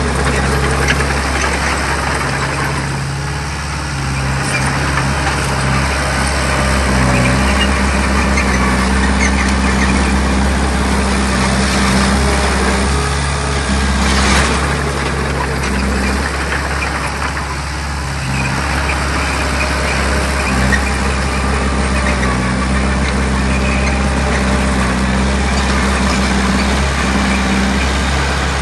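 Diesel engine of heavy earthmoving machinery running steadily, easing off briefly twice before picking up again.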